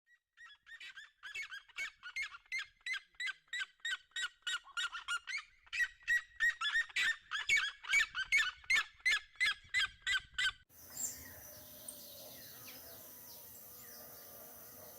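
A bird giving a rapid series of loud, sharp honking calls, about three a second, in two bouts with a brief break between them. The calling cuts off abruptly near the end, leaving faint outdoor ambience.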